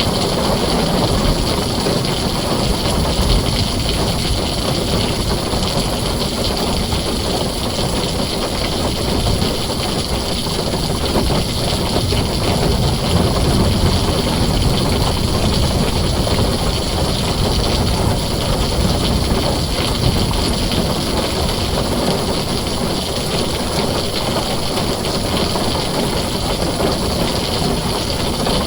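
Heavy rain falling steadily on a tin roof: an even, unbroken noise with a deep low rumble under it.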